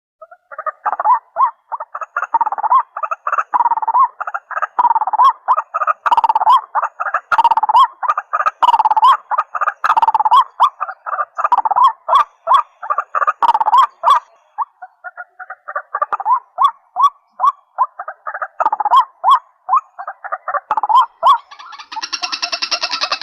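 Rails calling: a long run of short repeated call notes, several a second, all at about the same pitch. A different, richer call joins near the end.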